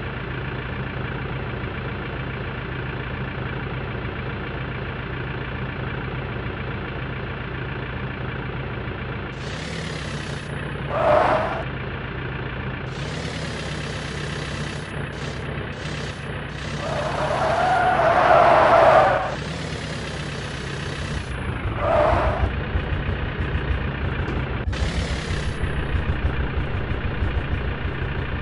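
Tractor engine running steadily. Three louder, higher-pitched sounds break in about a third of the way in, a longer one past the middle, and a short one soon after. The engine grows louder and rougher in the last quarter.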